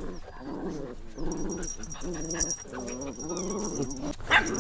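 Puppies growling and whimpering in low, wavering bursts, with a loud sharp yap near the end.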